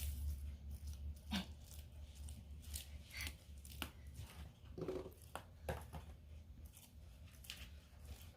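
Bearded dragon biting and crunching live feeder insects: a scattered series of short, sharp crunches and clicks, over a low steady hum.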